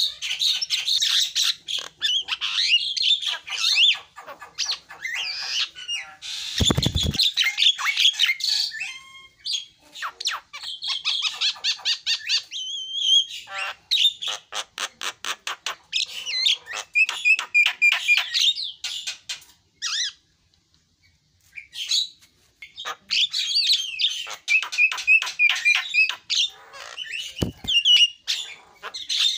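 Javan myna singing a long, varied song of rapid chattering notes and harsh squawks. There is a short loud rasp about a quarter of the way in and a brief pause about two-thirds through.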